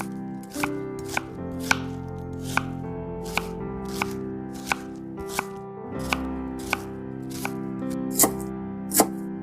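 Knife chopping on a cutting board in steady strokes about every two thirds of a second, with the last two strokes louder, over background music of sustained notes.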